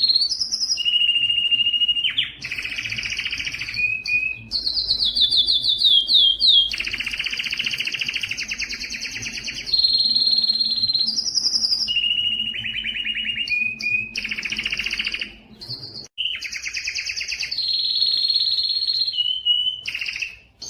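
Spanish timbrado canary singing a continuous song of phrases that alternate between fast rolling trills and held whistled notes. About four seconds in comes a run of quick notes, each falling in pitch.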